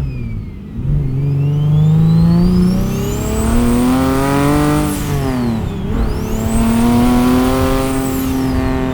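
Single-turbo Infiniti G37 sedan's 3.7 L V6 accelerating hard through the gears, with a high turbo whistle that rises with the revs. The revs dip just after the start, climb for about four seconds, drop at a shift around five to six seconds in, then climb again.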